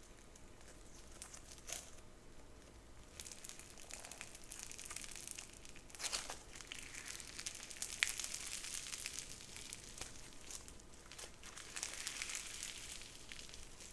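Crunchy slime being squeezed and pressed by hand, crackling and crinkling continuously with sharp pops. The loudest pop comes about eight seconds in.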